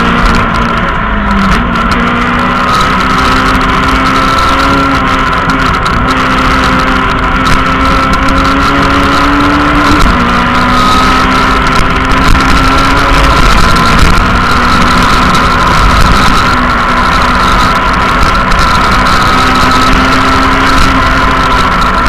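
Rally car engine at full stage pace, heard from inside the cabin: the engine note climbs slowly under load and drops sharply a few times as gears are changed, over constant road and wind noise.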